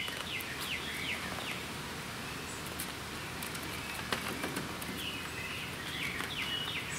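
A bird calling outdoors: two runs of short, quick falling chirps, one near the start and one near the end, over a steady background hiss. A single sharp click sounds about four seconds in.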